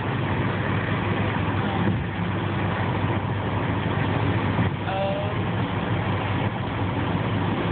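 Steady engine and road noise of a Toyota Corolla driving at highway speed, heard from inside the cabin.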